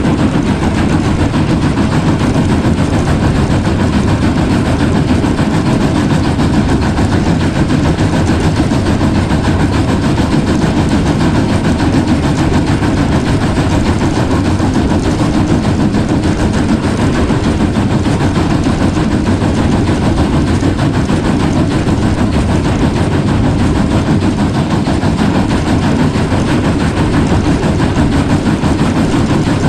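Train running, a loud steady rumble with no breaks.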